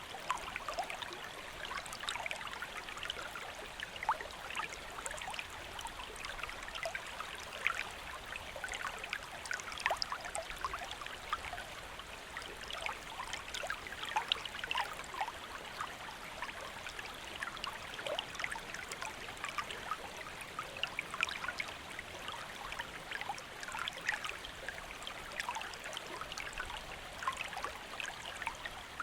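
Shallow stream flowing steadily, water babbling and trickling over rocks with many small splashes.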